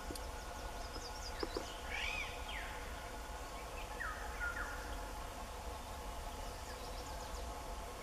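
Short bird calls over a steady background hum: quick whistles that rise and fall, about two and four seconds in, and a few thin, high chips.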